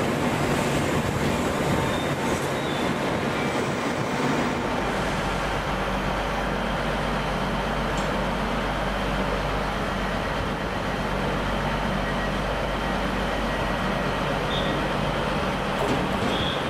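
Passenger train in a station, running with a steady low hum under a constant rumble of rail and station noise.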